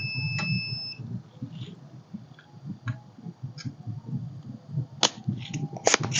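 A single electronic beep about a second long at the start, then scattered small clicks and taps of tools on a circuit board, with a cluster of sharper clicks near the end, over a steady low hum. The work is the removal of a shorted MOSFET driver IC from a charger board.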